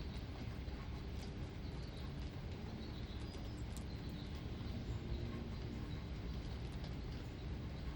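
Steady outdoor ambience: a continuous low rumble and hiss, with faint bird chirps and scattered light ticks.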